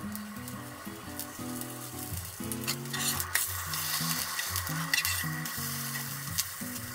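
Oil sizzling steadily in frying pans as starch-coated kurumabu wheat-gluten rings and stuffed triangles shallow-fry. A metal spatula clicks against the pan a few times as the pieces are turned.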